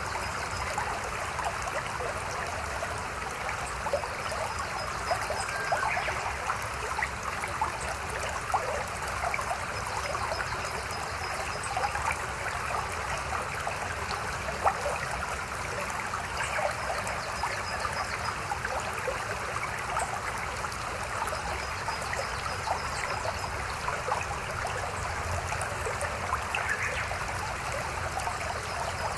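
A mountain stream babbling over rocks, a steady rush of water with many small splashes and gurgles. A faint high trill chirps every several seconds.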